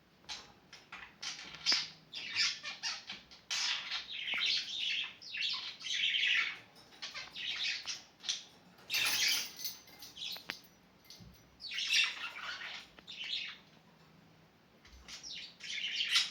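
Budgerigars chattering in quick runs of chirps and squawks, broken by short pauses, with a louder, harsher burst about nine seconds in.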